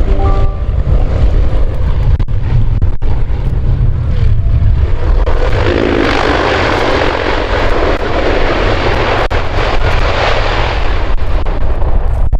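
Fixed-wing aircraft engines running, with a rushing noise that swells about five seconds in and fades near the end.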